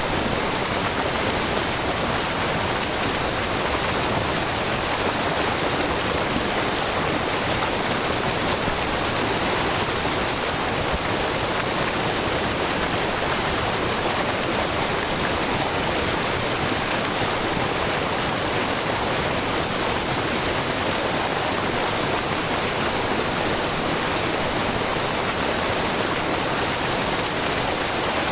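Shiraito Falls, a low, wide curtain waterfall of spring water, splashing in a steady, even rush with a brook babbling below it.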